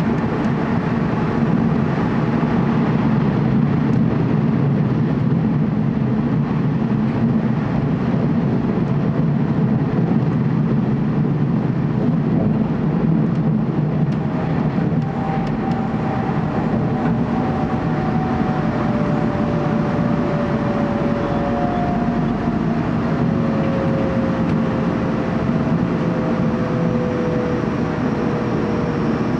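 Running noise heard inside a TEMU2000 Puyuma electric multiple-unit passenger car, a steady low rumble. About halfway through, a faint whine comes in and slowly falls in pitch.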